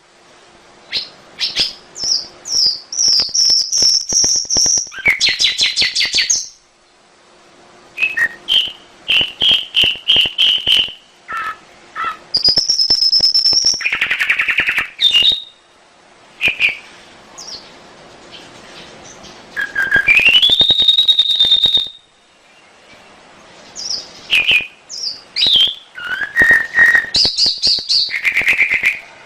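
Domestic canary singing a loud, varied song of rapid trills, quick repeated notes and clear whistles, with a rising whistled note about twenty seconds in, broken by a few short pauses.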